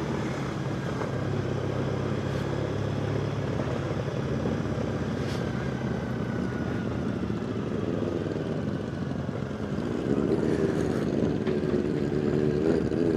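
Triumph Bonneville's parallel-twin motorcycle engine running at low speed. The engine note gets louder and starts to rise and fall about ten seconds in.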